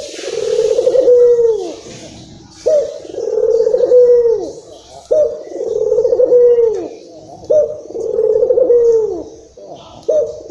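Puter (barbary dove) cooing over and over, a call about every two and a half seconds. Each call is a short sharp note followed by a long rolling coo that drops in pitch at the end.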